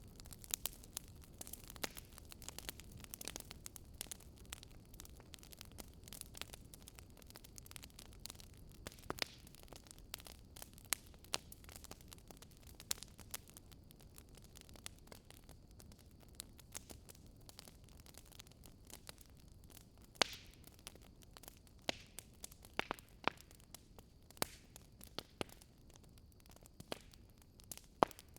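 Wood fire crackling: faint, irregular snaps and pops over a soft low rumble.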